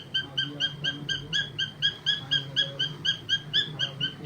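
Cockatiel chirping in a fast, even series of short, high calls, about four a second.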